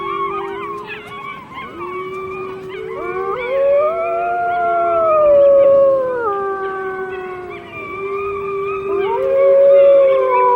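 A family of Arctic wolves howling in chorus: several long howls overlap, each sliding slowly up and down in pitch, with a strong howl rising about three seconds in and falling away, and another starting near the end. A group howl like this rouses the pack to action, here before the male goes off to hunt.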